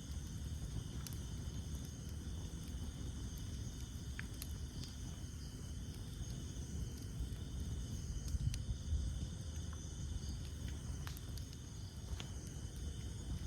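Campfire of burning wood crackling with sparse, irregular sharp pops over a steady low rumble, while a chorus of insects, crickets among them, trills steadily in the background.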